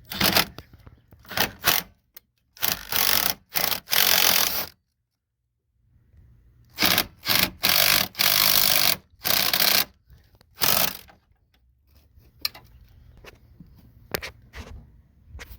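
Wrench scraping and rasping on the master cylinder's brake line nuts as they are cracked loose, in a series of short, loud bursts.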